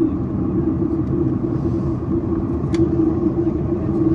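Boeing 737-800 cabin noise in flight: a steady drone of engines and airflow with a held hum, and a single short click about three seconds in.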